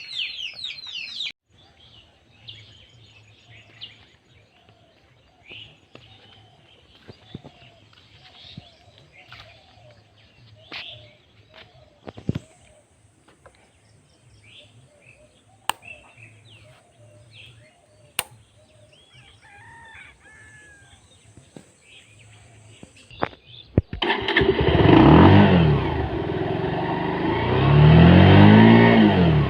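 Birds chirping and calling, loudly at first and then sparsely over a faint low hum, with a few sharp clicks. Near the end two motor vehicles pass close by, each engine rising and falling in pitch and loudness as it goes past; these are the loudest sounds.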